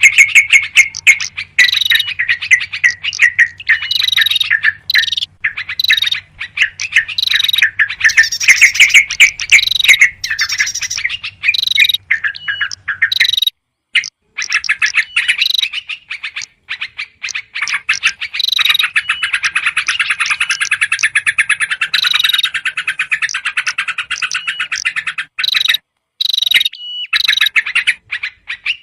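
Recorded bird-lure track of yellow-vented bulbuls calling noisily: rapid, repeated chattering calls, mixed with other small birds. The calls break off briefly about 13 seconds in, and a denser run of chatter follows from about 18 to 25 seconds.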